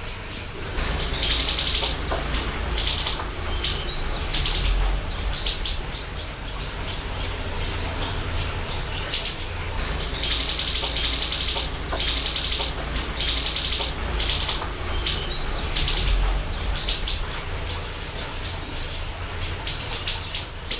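A songbird calling in a fast, repeating series of short high chirps mixed with longer high phrases of about half a second, with brief gaps between bouts, over a steady low hum.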